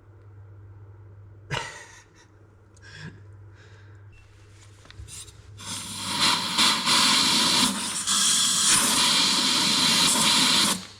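A sharp click, then a loud, steady hiss that starts about halfway through and lasts about five seconds before cutting off.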